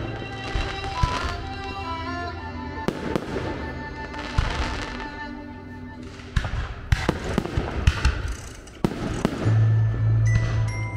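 Aerial fireworks shells bursting with sharp bangs and crackling, several in quick succession about seven to eight seconds in, over music that plays throughout.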